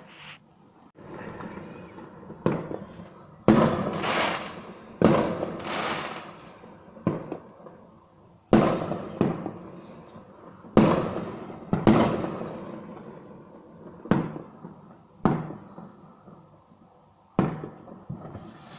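Fireworks going off: about ten sharp bangs at irregular intervals, one to two seconds apart, each trailing off in a fading crackle.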